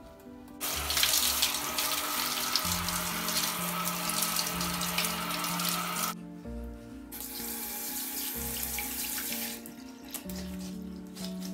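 A kitchen tap running into a sink, turned on for about five seconds, shut off suddenly, then run again for about two and a half seconds. Soft background music plays underneath.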